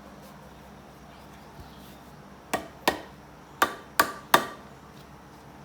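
Five sharp knocks of metal on metal from hand tools and engine parts, the last three in quick succession, several with a short ring.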